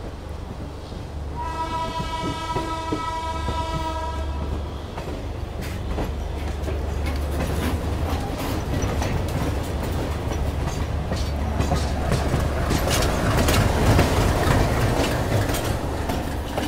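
A train horn gives one steady blast of about three seconds. Then the clatter of the moving train's wheels over rail joints and points builds, loudest near the end, over the train's steady low running rumble.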